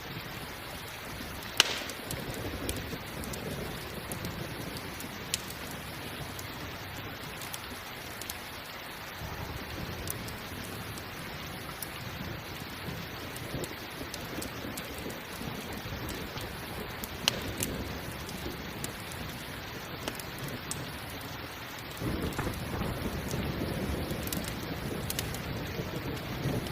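Steady rain with low rolling thunder, the loudest rumble building about three-quarters of the way through. A few sharp crackles pop out over the rain, typical of a campfire burning.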